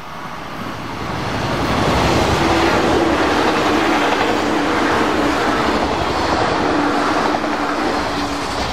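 A JNR 189 series limited express electric train passing through a station at speed: wheel-on-rail running noise with a steady hum, building up over the first two seconds and easing off near the end as the train goes by.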